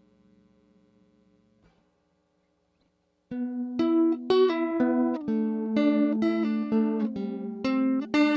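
Electric guitar played through a JHS 3 Series Flanger pedal. A faint held chord dies away and a short silence follows. From about three seconds in comes a quick, loud line of picked single notes.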